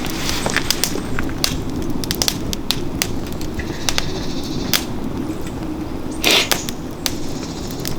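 Wood fire burning in a fire stand: the logs crackle and pop irregularly over a low steady rush of flame, with a louder burst of crackles about six seconds in.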